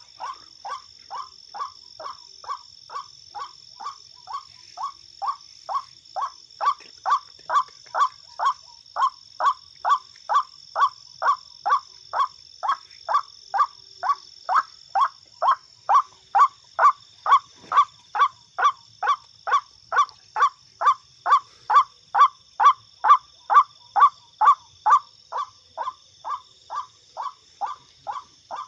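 White-breasted waterhen (ruak-ruak) call: a short falling note repeated very evenly, about twice a second, growing louder through the middle. Two steady high-pitched tones run behind it.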